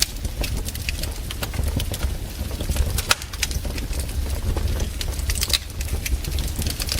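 Campfire crackling: irregular sharp snaps and pops from burning wood, several a second, over a steady low rumble.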